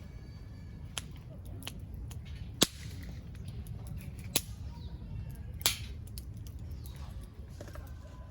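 Wood fire crackling: several sharp, separate pops, the loudest about two and a half seconds in, over a steady low rumble.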